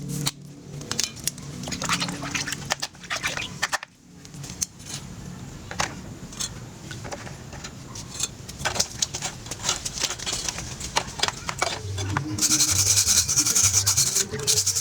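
Hand restoration work on an old stroller: scattered clicks and knocks of tools and parts being handled. About twelve seconds in comes a couple of seconds of rapid, loud scraping or sanding.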